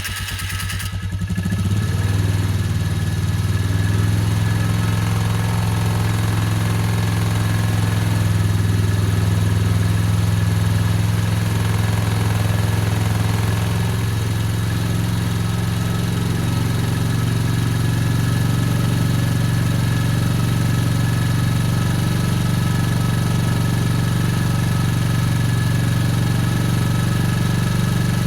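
Vehicle engine, cold-started moments before, firing unevenly for the first second or two and then settling into a steady idle.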